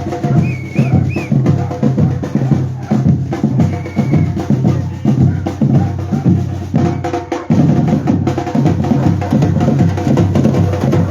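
Batucada percussion group playing a fast, dense rhythm of bass drums and snare drums, briefly easing off about seven seconds in and coming back in stronger.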